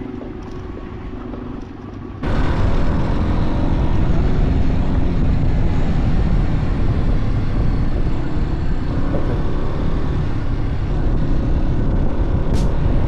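Motorcycle engine running while riding, largely buried under loud wind noise on the microphone. The sound cuts in abruptly about two seconds in, after a quieter stretch of engine hum.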